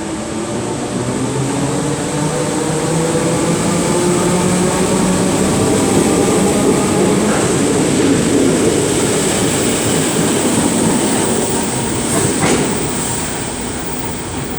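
Merseyrail Class 507 electric multiple unit pulling away from the platform: its traction motor whine rises in pitch as it accelerates, over wheel and rail noise. The sound grows louder through the middle and then fades as the train leaves.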